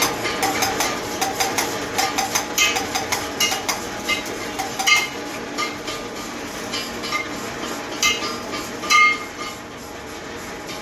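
Metal parts and hand tools clinking and scraping against each other in many light, irregular clicks, some with a short metallic ring.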